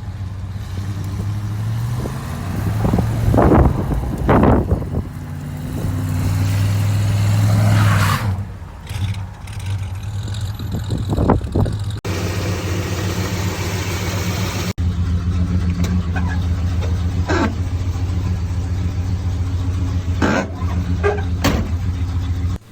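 1968 Dodge Charger's big-block V8 running in the snow, revved up several times in the first eight seconds as the car is rocked back and forth out of a snowdrift, then running steadily.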